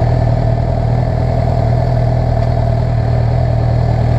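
Motorcycle engines idling steadily at rest, the nearest the Suzuki GSX-R 750's inline-four, with a Kawasaki Vulcan S idling alongside.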